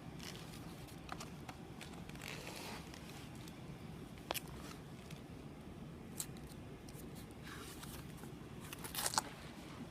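Faint steady room hum with a few light clicks and short rustles, the sound of handling between spoken captions.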